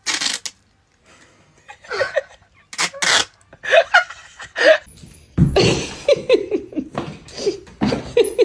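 A few sharp breathy bursts, then a person laughing in quick repeated bursts from about halfway through.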